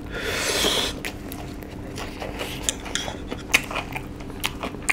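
Close-up eating sounds: chewing and biting into crispy fried chicken, with a few sharp crunches in the second half.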